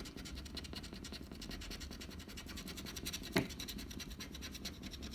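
Rapid, steady scratching on a lottery scratch-off ticket, rubbing off the latex coating. A single sharp tick sounds a little past the middle.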